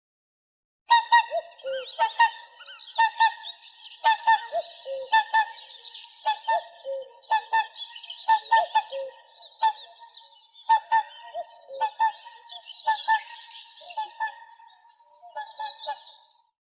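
Whooper swans calling: a long run of short, bugling calls, one or two a second, starting about a second in, with a thinner, higher chatter running behind them.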